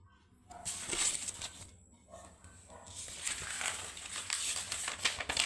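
Animal noises, short and irregular, over a faint hiss.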